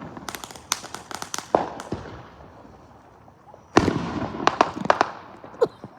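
Fireworks popping in rapid strings of sharp bangs: a quick run of pops in the first second and a half, a lull, then a denser string starting about four seconds in.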